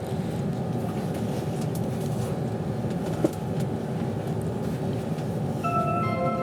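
Steady rumble of a train in motion, heard from inside the passenger carriage, with a single short knock about three seconds in. Near the end, the steady tones of the onboard public-address chime sound over it, ahead of an announcement.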